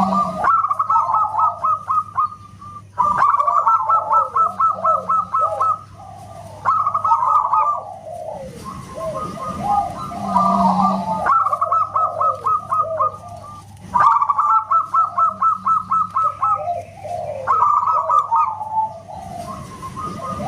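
Zebra dove (perkutut) singing: repeated phrases, each a quick run of short staccato coo notes followed by lower falling notes, with brief pauses between phrases.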